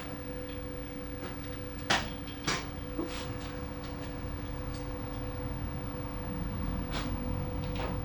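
Workshop handling noise: a few sharp metallic clicks, two close together about two seconds in and another near the end, over a steady electrical hum.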